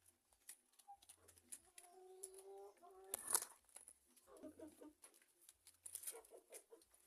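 Chickens clucking softly: a drawn-out call from about a second in, then quick runs of short clucks later on, with a single sharp knock a little after three seconds.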